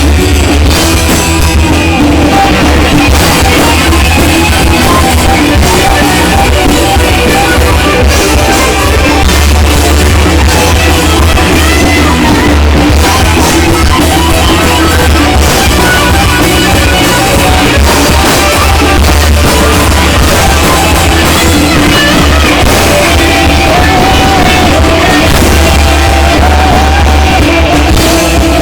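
Loud rock music with a singer, drums and guitar, with a heavy, steady bass.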